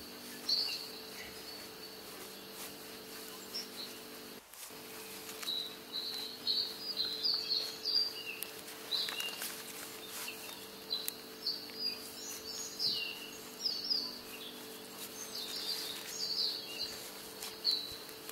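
Small birds chirping: short, high chirps, scattered at first and coming thick and fast from about six seconds in, over a faint steady hum.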